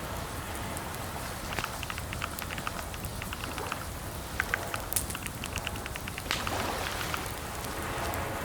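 Computer keyboard typing in two quick runs of keystrokes, the second ending about six seconds in, over a steady rain-like hiss of background ambience.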